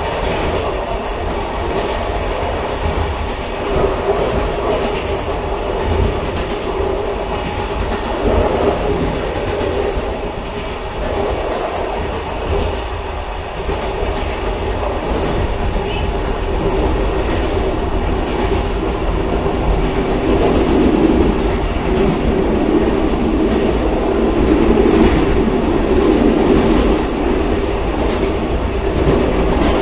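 Railcar running along the track: a steady rumble with the clickety-clack of wheels over rail joints. It grows louder from about twenty seconds in.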